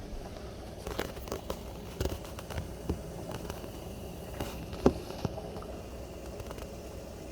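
Pot of water boiling, a steady bubbling rush, with scattered sharp clicks and knocks during the first five seconds, the loudest about five seconds in.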